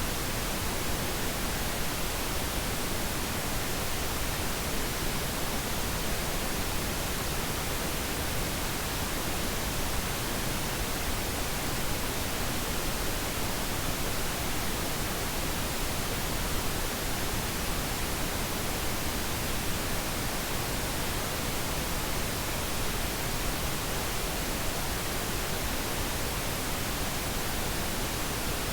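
Steady pink noise: an even, unchanging hiss spread across all pitches, with no variation.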